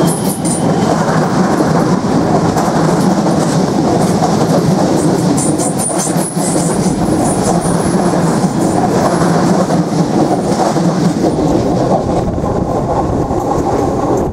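Irish Rail 8520 class DART electric multiple unit passing close by: a loud, steady rumble of steel wheels on rail, with clicks as the wheels cross the rail joints.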